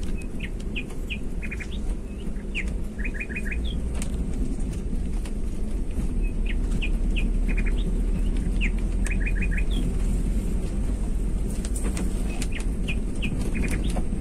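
Birds chirping: the same phrase of short chirps and quick runs of three or four notes comes back about every six seconds, over a steady low rumble.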